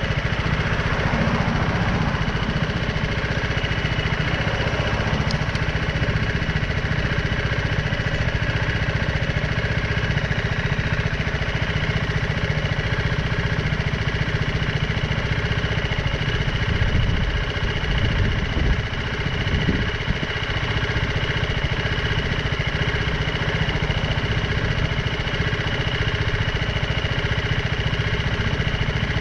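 BMW G310R motorcycle's single-cylinder engine running steadily, with a brief louder, rougher stretch a little past the middle.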